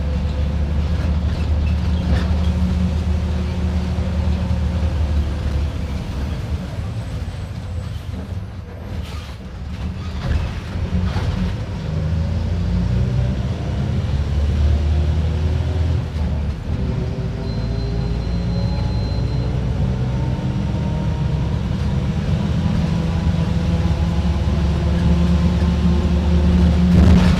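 Mercedes-Benz OF-1721 BlueTec 5 bus's diesel engine running while the bus is driven. It eases off with a few knocks about a third of the way in, then pulls again, its pitch climbing in several steps as the bus accelerates.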